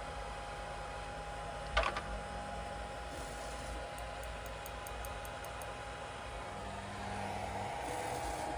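Steady hum of a 3D printer at idle, its fans running with a faint constant high whine, and one sharp click about two seconds in.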